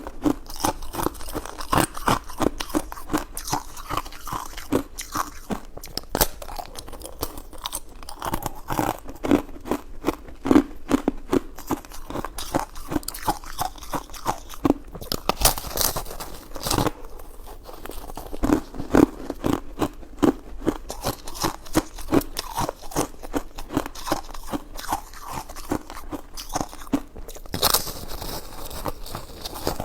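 A person chewing and biting food close to the microphone: many quick chewing sounds, with a few louder, sharper crackles about halfway through and again near the end.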